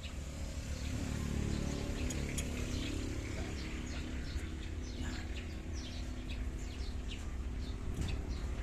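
Small birds chirping repeatedly in quick short notes over a steady low background rumble.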